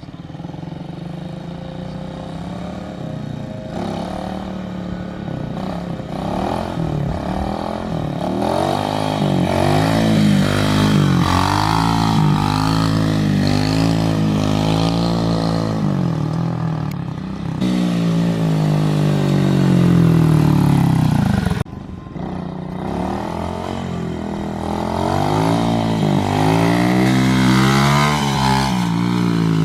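Small Chinese 125cc single-cylinder four-stroke pit bike engine being ridden, revving up and down over and over as the throttle is opened and eased off. The sound breaks off suddenly about two-thirds of the way in, then the revving resumes.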